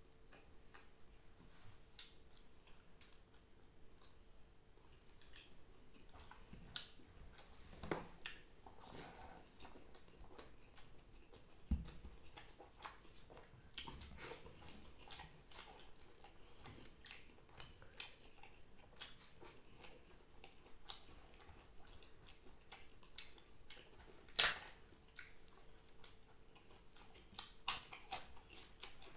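Person eating a rice meal by hand: quiet wet chewing with lip-smacking clicks, and a few sharper smacks near the end.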